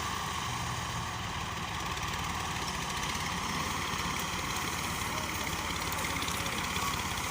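Al-Ghazi tractor's diesel engine running steadily, with a fast, even low chugging.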